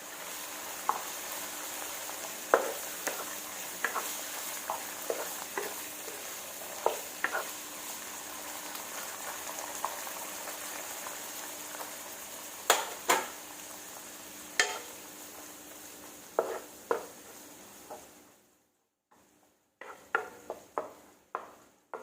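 Food sizzling in a hot frying pan while a utensil stirs it, knocking against the pan now and then. Near the end the sizzle fades out, and a few quick knocks follow.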